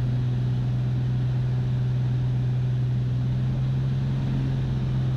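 Beechcraft Bonanza's single piston engine and propeller droning steadily in the cockpit, one strong low hum that holds the same pitch throughout.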